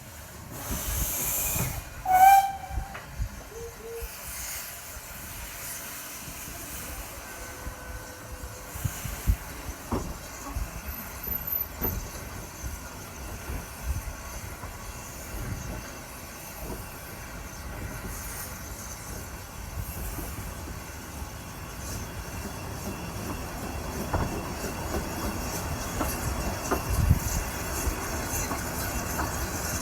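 Narrow-gauge steam locomotive: a burst of steam hiss, then a short whistle blast about two seconds in, followed by steady train and wind noise that grows louder near the end.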